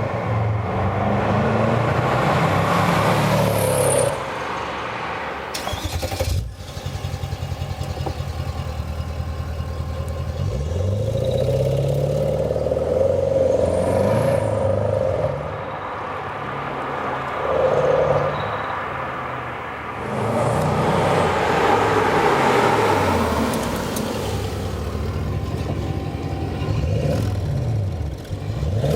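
Mercedes E420 CDI's OM629 V8 twin-turbo diesel, its DPF and resonator replaced by straight pipes into emptied Kleemann mufflers, revving up and dropping back several times. The exhaust is loud, with a brief sharp break about six seconds in.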